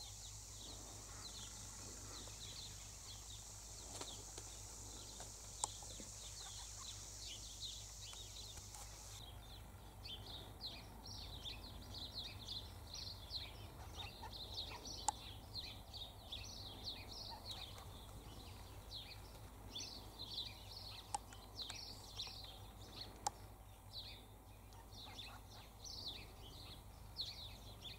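Faint, rapid bird chirping and twittering, thicker from about ten seconds in. Under it a steady high hiss cuts off suddenly about nine seconds in, and a few soft clicks stand out.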